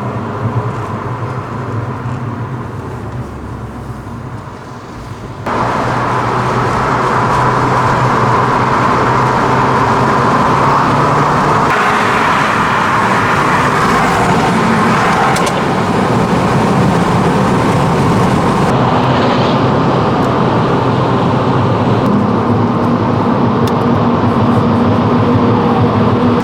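Car engine running steadily at low revs. About five seconds in it gives way abruptly to loud, steady engine and road noise of a car driving fast.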